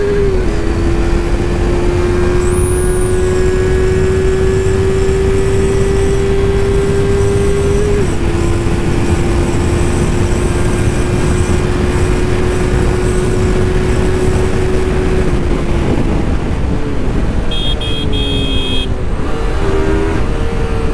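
Yamaha R3's parallel-twin engine held at high revs on a flat-out top-speed run, under heavy wind noise. The engine note dips briefly twice, at gear changes, then drops and wavers from about three-quarters of the way through as the throttle comes off.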